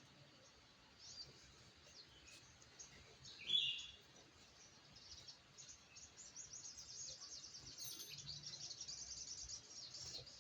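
Sogok ontong, a small sunbird, calling: scattered thin high chirps with one louder chirp about three and a half seconds in, then a fast, high twittering trill from about six seconds in.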